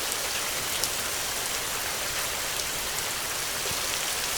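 Heavy rain falling steadily: a dense, even hiss with scattered individual drop hits.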